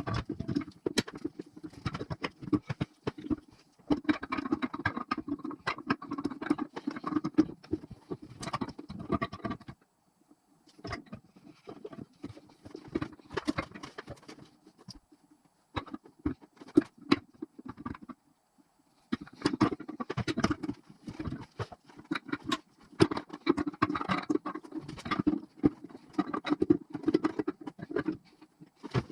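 Rapid clicking, scraping and clattering of hand tools and small metal engine parts being handled, in bursts with short pauses.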